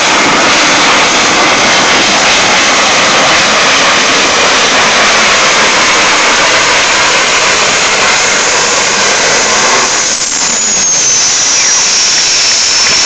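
Competition pulling vehicle's engine running flat out, a loud dense roar. About ten seconds in, a high whine starts and falls steadily in pitch.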